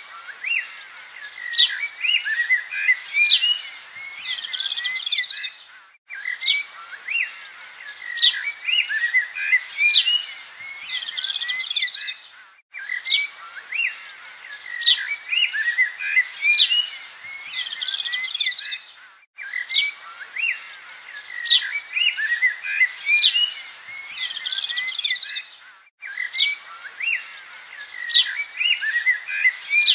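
Birdsong recording looped as a background track: the same bright chirps and short calls repeat every six and a half seconds or so, with a brief break at each restart of the loop.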